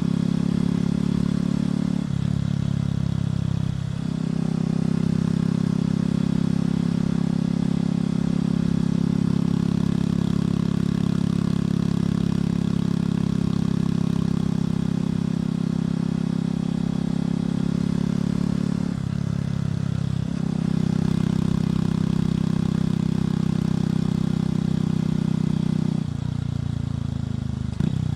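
Motorcycle engine and exhaust running under way with a steady, even note. The pitch steps up or down a few times, about two and four seconds in, around nineteen to twenty seconds, and again near twenty-six seconds, as the throttle or gear changes.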